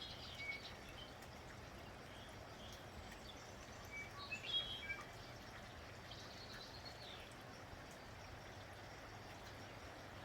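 Steady light rain with small birds chirping in short bursts: a few calls at the start, a louder cluster a little before the middle, and more shortly after.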